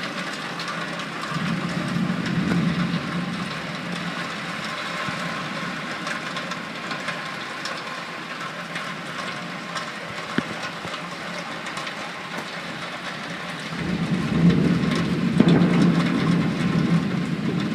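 Heavy tropical rain pouring steadily, a continuous hiss of downpour. A low rumble swells up twice, briefly a couple of seconds in and louder near the end.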